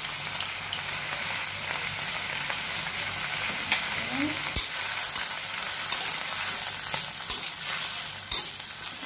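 Choy sum stir-frying in oil in a steel wok with garlic and ginger, a steady sizzle. Oyster sauce has just gone into the hot wok. Toward the end a spatula stirs and scrapes the greens around the pan.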